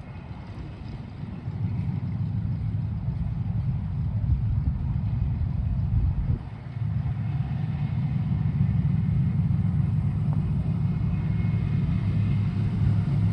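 Propeller aircraft engine running with a steady low drone. It grows louder about a second and a half in and dips briefly about six seconds in.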